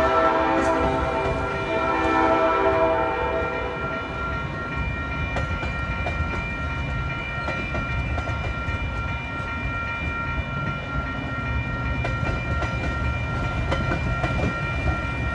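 Train horn sounding a steady chord for the first three seconds or so, then bi-level passenger coaches rolling steadily past with a low rumble and wheels clicking over the rail joints.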